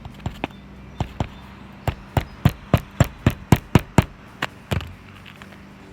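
Hammer driving a roofing nail into an asphalt shingle. It starts with a few light taps to set the nail, then a quick run of harder blows at about four a second, then two last strikes.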